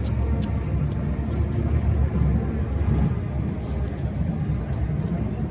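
Wind buffeting the microphone: a low, gusting rumble with outdoor street noise behind it.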